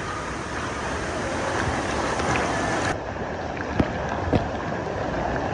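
Pool water rushing and splashing, with wind buffeting the microphone; the sound changes abruptly about three seconds in.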